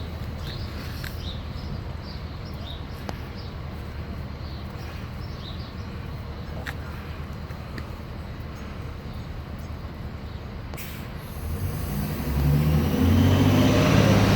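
A steady low rumble, with an engine-like sound growing louder over the last few seconds.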